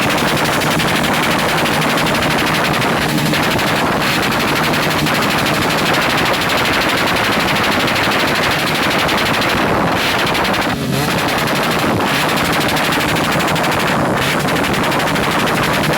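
Motorcycle engine held at the rev limiter: a loud, rapid, even stutter of ignition cut-outs that sounds like machine-gun fire.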